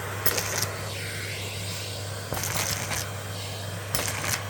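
Henry canister vacuum cleaner running with a steady hum while pistachio shells are sucked up, rattling through the hose in three short bursts.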